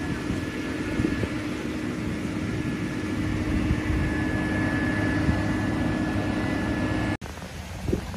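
A vehicle running steadily: a low, noisy rumble with a faint steady whine over it, which cuts off suddenly about seven seconds in, leaving a quieter patter of small ticks.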